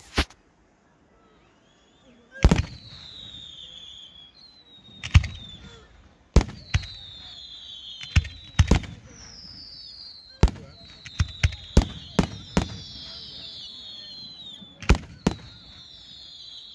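Aerial fireworks shells bursting at a display: a dozen or more sharp bangs at irregular intervals, some in quick clusters, with high whistles falling in pitch between them. The sound drops out almost completely for about two seconds near the start.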